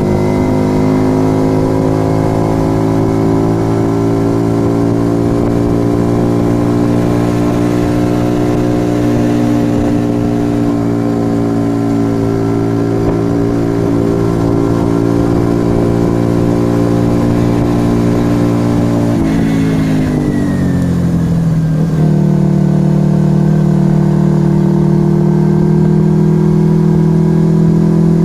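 A Yamaha XV125 Virago's air-cooled 125 cc V-twin, breathing through a Turbo Kit aftermarket exhaust, running at a steady speed under way. About twenty seconds in, its note dips and shifts, then settles again at a new steady pitch.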